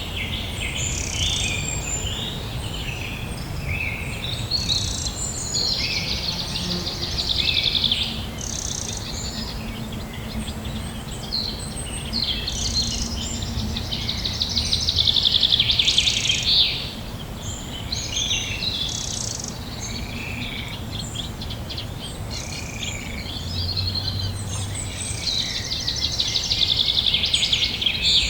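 A chorus of songbirds singing: many overlapping chirps and rapid trills, with a few louder trilling songs, over a steady low background hum.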